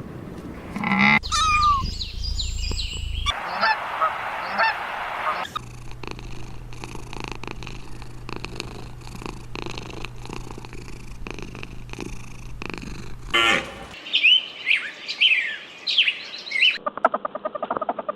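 A string of short animal recordings cut one after another, mostly waterfowl honking and calling. In the middle there is a longer stretch of clicks over a low steady hum, and another clip begins near the end.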